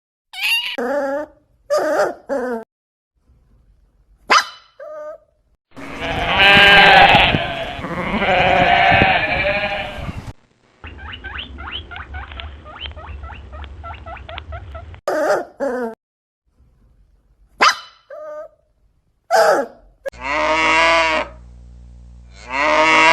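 Domestic animals calling: a string of short, separate pitched cries, with a louder run of cries about a quarter of the way in and a stretch of quick repeated sounds after it.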